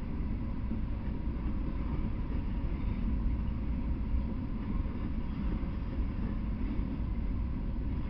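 Freight train of open-top hopper cars rolling past at a steady speed: a continuous low rumble of steel wheels on the rails.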